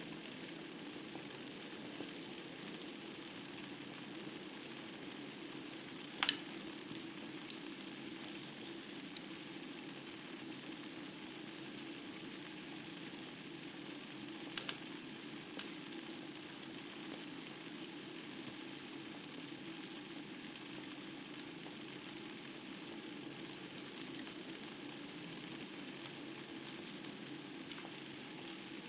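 Wood fire crackling in a fireplace: a steady hiss of burning logs with a few scattered sharp pops of the wood, the loudest about six seconds in.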